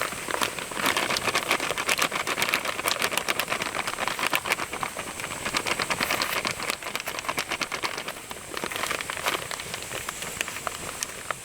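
Food sizzling over a campfire, with a steady fizz and many quick pops and crackles.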